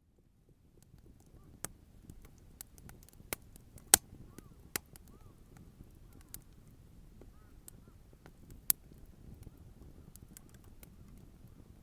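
Wood bonfire burning with a low rushing sound and irregular sharp crackles and pops, the loudest about four seconds in and another near nine seconds.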